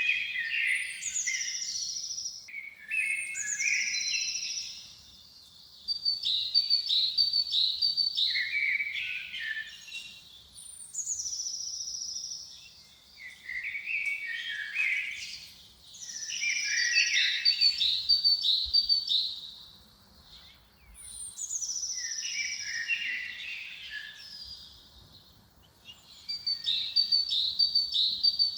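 A songbird singing, phrase after phrase: each a few seconds long, starting with high notes that slide down, then running into quicker, lower warbled notes, with short pauses between phrases.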